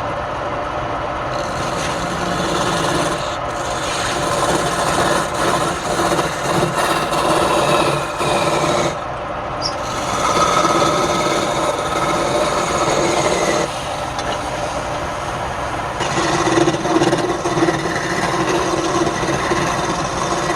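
Wood lathe running while the spinning wooden workpiece is worked, giving a continuous rasping, rubbing sound over the lathe's steady hum. The sound briefly lets up about nine seconds in.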